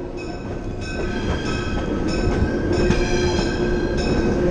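Passenger train rolling along the track with a steady rumble; from about a second in, a steady high-pitched squeal of wheels on the rails rides over it.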